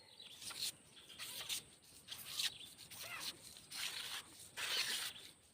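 Close handling noise: a string of short, irregular rustling scrapes, the longest and loudest near the end.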